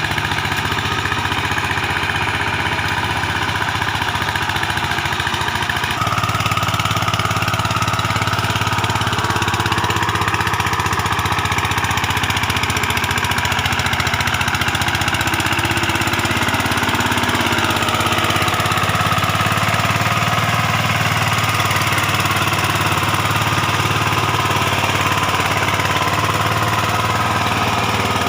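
VST Shakti 130 DI power tiller's single-cylinder diesel engine running steadily with a knocking beat, getting a little louder about six seconds in.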